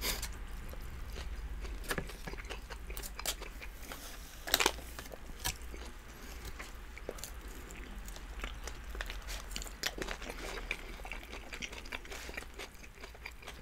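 Close-miked chewing and crunching of doner kebab with crunchy vegetables, with scattered sharp clicks and taps of plastic forks at the food, the loudest about four and a half seconds in.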